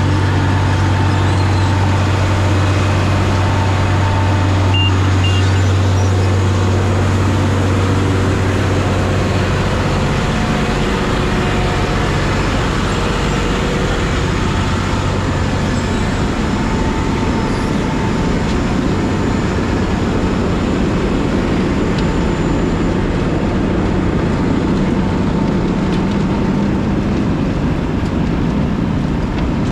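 Heavy diesel machinery running steadily and loud. A low, even hum fades out about ten seconds in, leaving a rougher rumble.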